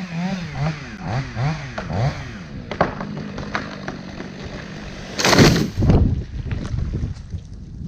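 Chainsaw running, its pitch rising and falling over and over as the throttle is worked, fading out about halfway through. Sharp cracks follow, then a loud crashing noise just after five seconds.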